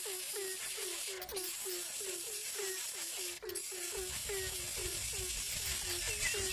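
Free-range mother hen clucking in a fast, even run of low calls, about five a second. A few faint high chick peeps come in near the end.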